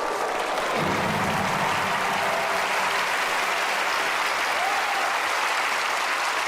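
Studio audience applauding steadily and loudly, with no break, at the close of a stage magic performance.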